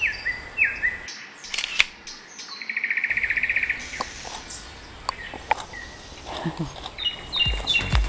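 Songbirds singing in woodland: two falling whistled notes at the start, a fast trill a few seconds in, and higher stepped notes near the end. A few sharp clicks sound in between.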